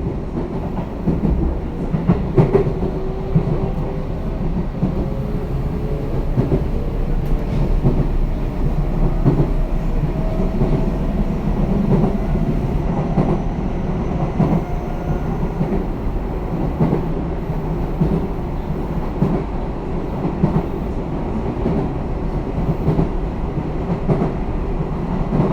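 Tobu 10080 series electric train running, heard from inside the car: a steady rumble of wheels on rail with scattered clacks. A faint whine climbs slowly in pitch over the first half as the train gathers speed.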